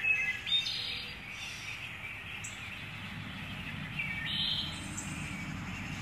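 Wild birds chirping: a few short calls near the start and again about four seconds in, over a steady outdoor background.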